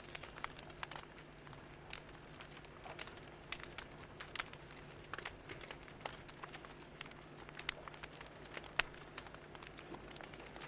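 Fire crackling: irregular sharp pops and snaps scattered over a soft steady hiss, with a faint low hum underneath.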